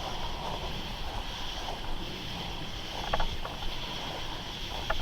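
Steady high-pitched drone of night insects, with low rumble from wind or handling on the microphone and a few light clicks about three seconds in and near the end.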